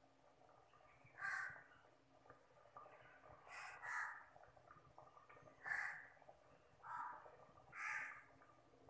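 A bird calling repeatedly: six short calls at irregular gaps of about one to two seconds.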